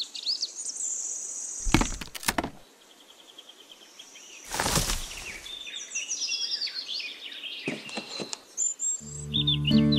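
Birds chirping in short, quick phrases, with a couple of loud knocks about two and five seconds in. Background music comes back in near the end.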